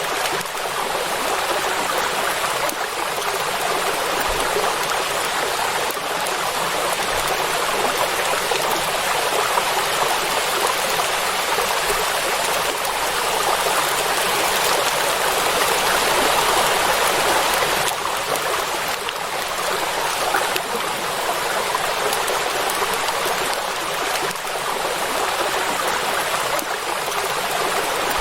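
Rain falling steadily on water, an even hiss with hardly any rumble and no thunder.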